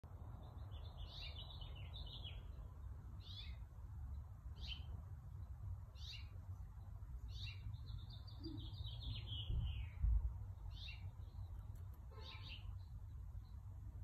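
Songbirds singing in short, high chirping phrases every second or so, with a longer run of falling notes around the middle, over a steady low rumble. A low bump about ten seconds in is the loudest moment.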